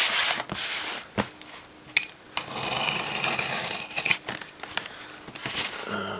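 Stubborn sticky tape being pulled and ripped off a mailed parcel, with crinkling of the packaging. There are several sharp clicks and a longer rip through the middle.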